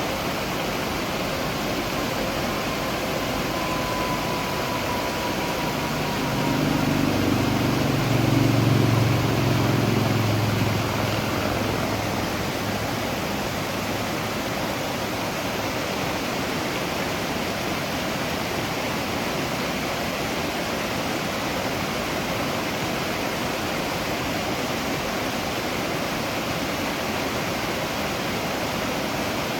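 Waterfall rushing steadily. About six seconds in, a low rumble swells over it for several seconds and then fades away.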